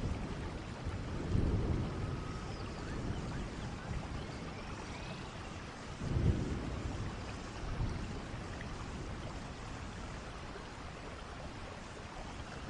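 Steady rain falling, with thunder rumbling twice, a roll about a second and a half in and a louder one about six seconds in, each fading out slowly.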